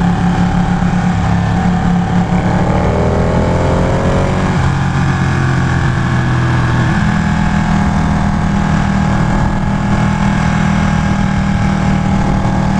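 Ducati 1199 Panigale's L-twin engine running at cruising speed, with wind rushing past. The engine note falls between about two and four seconds in, then picks up again about seven seconds in.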